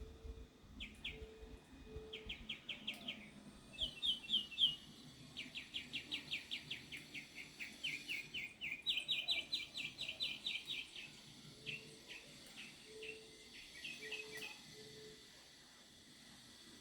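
Birds calling: bouts of quick trilled chirps, about eight high notes a second, with a few short low hoots repeating in small groups near the start and again later.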